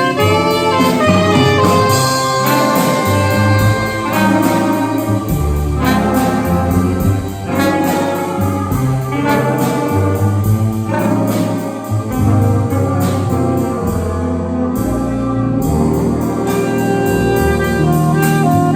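School jazz band playing, its horn section sounding several held notes together that move every second or so, with a light, steady ticking on top.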